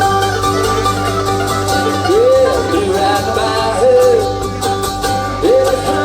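Live country-rock trio playing an instrumental break: steady held chords under a lead line of sliding, bending notes.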